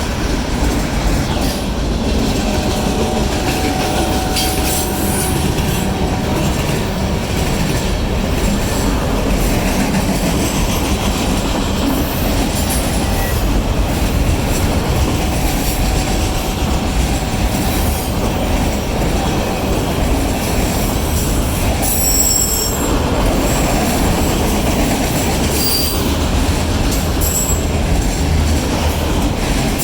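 Union Pacific manifest freight train rolling past close by: a steady rumble of wheels on rail, with brief high-pitched wheel squeals about two-thirds of the way through.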